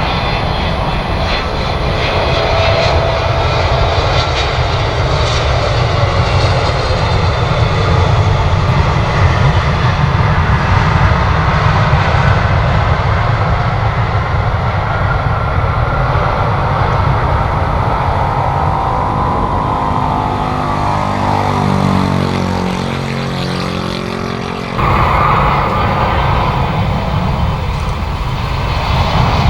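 Jet airliner engines on a landing approach, a loud steady rush with a falling sweep as the aircraft passes by. Near the end the sound changes abruptly to a brighter jet noise from another aircraft.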